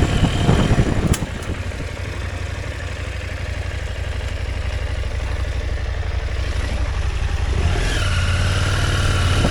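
Motorcycle engine running at low, steady revs while riding, with a sharp knock about a second in; about eight seconds in the engine picks up and grows louder, with a rising whine.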